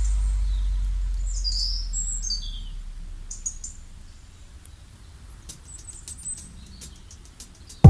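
A few quick high bird chirps, each falling in pitch, over the low tail of fading music, followed by faint scattered ticks.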